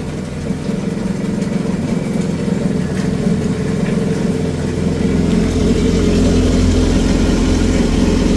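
A 2021 Yamaha FX HO jet ski's four-stroke four-cylinder engine idling steadily as it warms up. Its low rumble grows louder about five seconds in.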